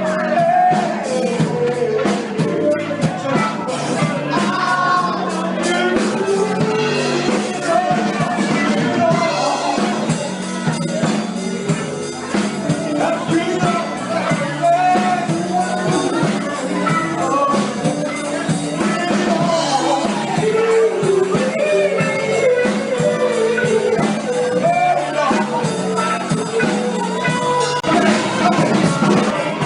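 Live soul band playing with a lead singer: a singing voice over a full band with drums.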